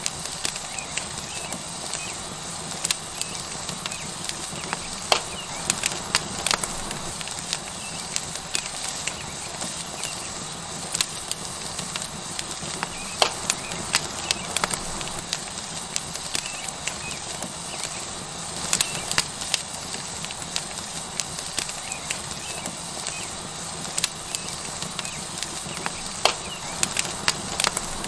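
Tomahawk steak sizzling on a hot rock over a wood fire, a steady hiss with the fire crackling and popping at irregular moments.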